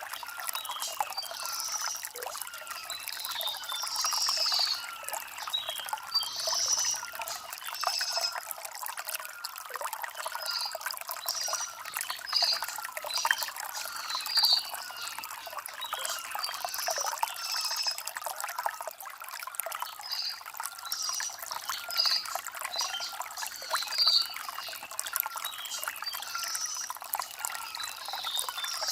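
Shallow stream trickling and gurgling over river stones, a light splashy flow with no deep rumble. High bird chirps recur every second or two over the water.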